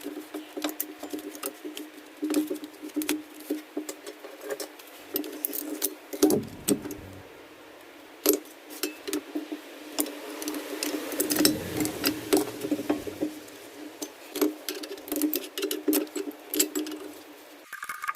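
Irregular metallic clicks and clinks of rear brake pads and their metal retaining clips being handled and fitted into the brake caliper carrier, over a steady low hum that cuts off near the end.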